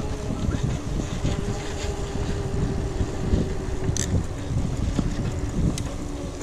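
Wind buffeting the microphone over the rumble of a mountain bike rolling along a dirt trail, with a sharp tick about four seconds in.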